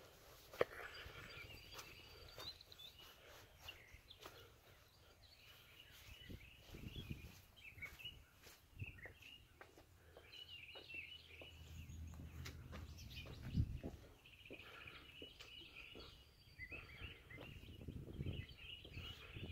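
Birds chirping faintly, with a few soft low thuds.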